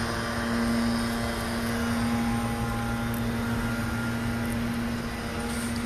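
Steady mechanical hum of supermarket equipment such as refrigeration and ventilation, a low drone with one held tone throughout.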